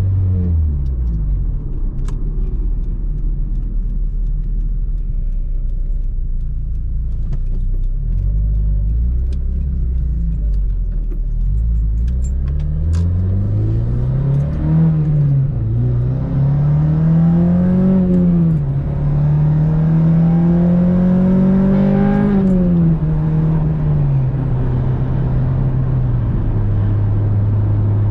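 Acura RSX's 2006 Type S 2.0-litre four-cylinder engine heard from inside the cabin while driving. It runs low and steady at first, then about twelve seconds in the revs climb, dip twice and climb again to a peak. Near the end they fall away and settle to a steady cruise.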